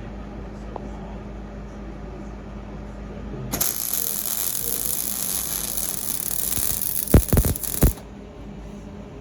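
A low steady hum, then about three and a half seconds in a MIG welder's arc strikes and runs with a steady hiss for about four seconds, tack-welding chromoly chassis tubing, ending in a few sharp pops as the arc stops.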